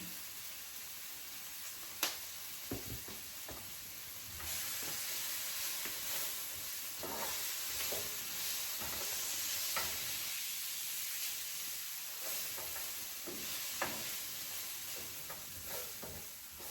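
Broccolini sizzling in melted garlic butter in a pan, stirred with a utensil that clicks against the pan now and then. The sizzle gets louder about four and a half seconds in.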